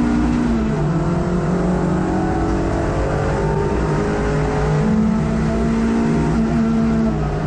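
A racing hot hatch's engine heard from inside the cabin, running hard at high revs, its pitch holding and shifting a little as the car is driven at speed.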